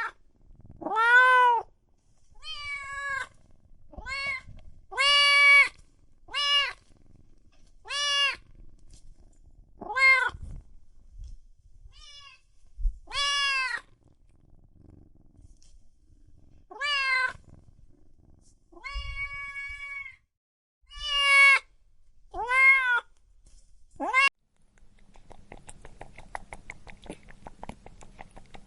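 A cat meowing about a dozen times in separate calls, each rising and falling in pitch, spaced one to several seconds apart. The calls stop about 24 seconds in, leaving only faint background noise.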